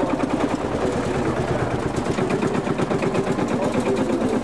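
Engine running with a fast, even beat.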